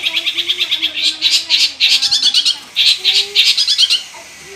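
Long-tailed shrike (cendet) singing a fast, harsh, chattering run of repeated notes full of mimicked material, stopping about four seconds in.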